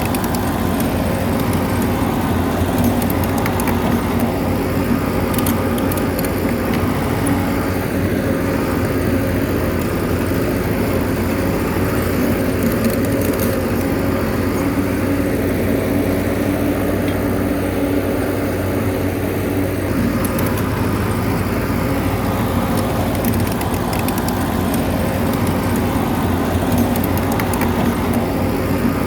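Bulldozer's diesel engine running steadily under work, with occasional faint clicks over it.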